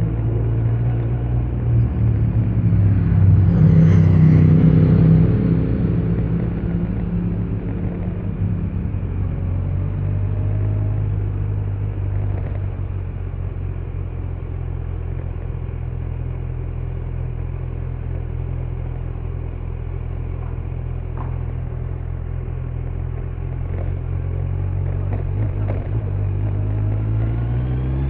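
Kawasaki Z900's inline-four engine with stock exhaust, running at a steady cruise, louder for a few seconds about four seconds in, then rising in pitch near the end as the bike accelerates.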